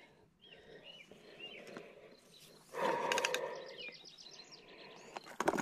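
Faint bird chirps, several short calls in the first couple of seconds. About three seconds in, a louder rustling noise lasts over a second, with a quick run of short high ticks near its end.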